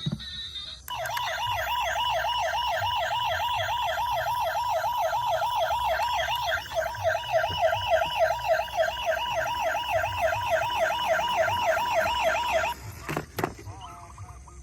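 Toy emergency vehicle's electronic siren sounding a fast yelp, about four up-and-down sweeps a second. It stops abruptly near the end, followed by a single click.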